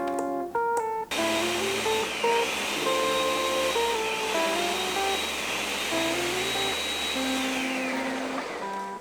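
Background music of plucked and keyed notes, with a loud steady whirring rush that starts suddenly about a second in. A high whine over the rush dips and rises, then slides down near the end before the rush cuts off.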